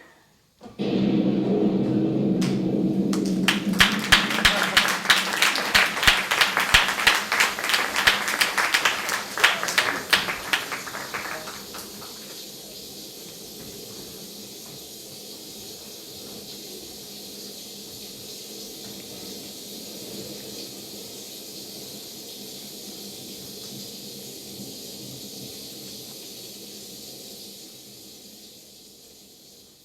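Audience applause: a loud burst of clapping that dies away about twelve seconds in, opened by a held pitched sound, then a steady hiss that fades near the end.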